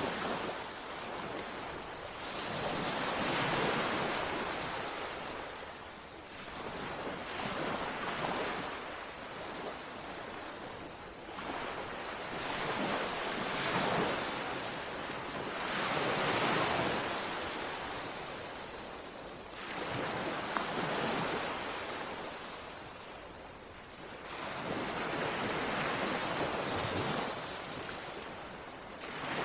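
Sea waves washing in and breaking, each surge of surf swelling and fading every few seconds.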